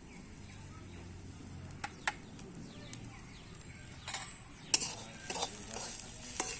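Scattered clicks and knocks of a utensil against a cooking pan, the sharpest a little after four seconds and near five seconds in, with a few faint bird chirps in the middle.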